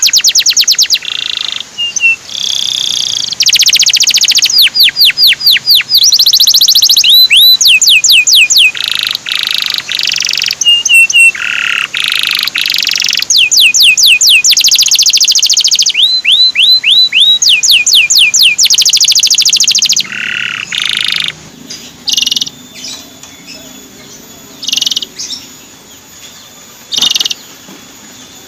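Male canary singing: loud phrases of very fast trills, downward-sweeping whistled notes and chirps, one after another. About twenty seconds in the song stops and only scattered short chirps remain.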